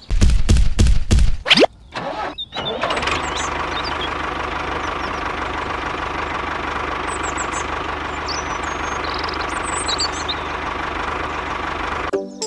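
A small engine or motor starting: a few loud low thumps and a quick rising whine in the first second and a half, then a steady running hum.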